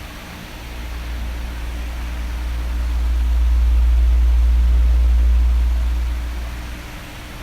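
Electric fan blowing, a steady rushing hiss with a low rumble that swells about a second in, is loudest in the middle and fades again near the end, as an oscillating fan does when it sweeps past.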